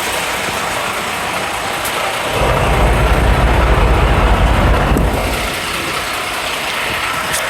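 Semi truck's diesel engine running, rising to a heavier low rumble for about two and a half seconds from about two seconds in as the truck pulls ahead, then easing back to a steady run.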